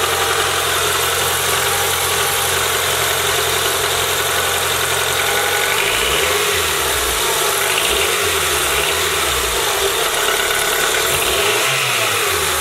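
Car engine idling steadily after a valve cover gasket and spark plug seal job, running fine. In the second half its low pitch rises and falls a few times.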